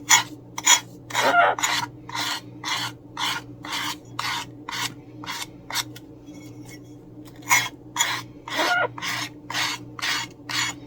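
Sanding block rasping back and forth over the edges of a napkin-covered coaster to sand off the excess napkin, at about two strokes a second, with a short pause in the middle.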